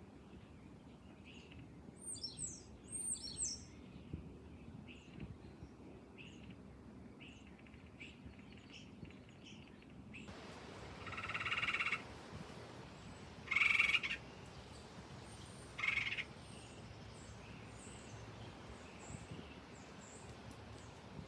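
Wild bird calls: a couple of quick, high chirping phrases about two seconds in and faint scattered chirps after them, then three louder calls in the second half, the first about a second long and the last two short.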